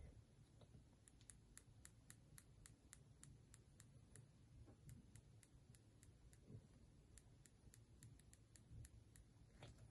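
Faint, quick, sharp clicks from a defective iPhone 13 Pro's back glass and frame as it is pressed, about four a second at first and sparser later.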